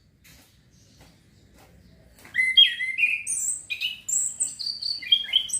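Male orange-headed thrush (anis kembang) singing a quick run of varied, sliding whistled notes. The song starts about two seconds in, after a near-quiet stretch with a few faint ticks. It is a young male still learning its song.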